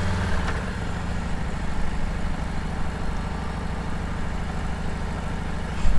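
Motorcycle engine running under way, with wind rushing over the microphone; the engine note drops about half a second in, and there is a brief thump near the end.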